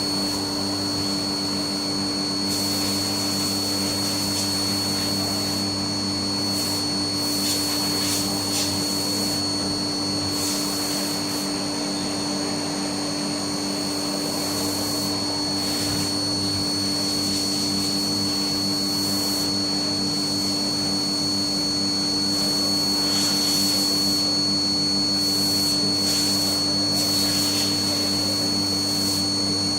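Haas MiniMill CNC vertical mill running an engraving pass in brass: a steady high whine over a constant low machine hum, with short irregular bursts of high hiss.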